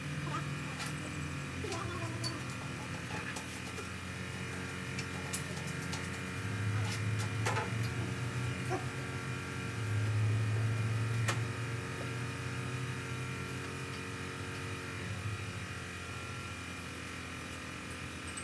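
A steady machine hum with several even tones, growing louder twice, about seven and ten seconds in, with a few light clicks.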